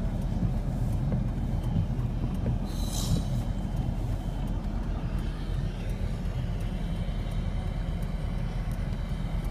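Steady low rumble inside a stopped vehicle's cab as dust-storm wind buffets it, with a short hiss about three seconds in.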